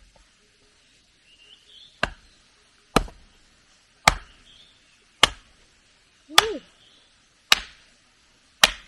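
Firewood being split into kindling with a splitting tool: seven sharp strikes on wood, about one a second, starting about two seconds in.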